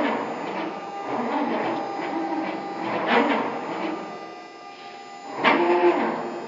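CNC router's stepper motors driving the axes: a whining hum with several steady tones, louder in short surges at the start, about three seconds in and again near the end.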